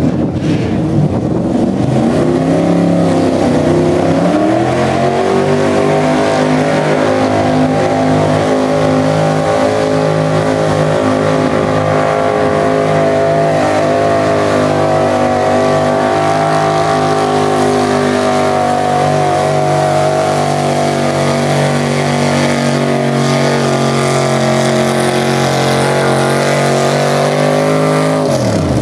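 A high-powered pulling vehicle's engine at full throttle during a pull. The revs sag briefly early on, climb back and hold high and steady, then fall away sharply right at the end as the throttle is let off.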